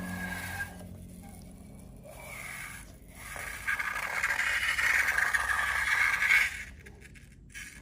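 Close-up scraping and rubbing from hands-on slime-making, starting about a third of the way in and running for about three seconds before it drops away near the end. A short tone fades out right at the start.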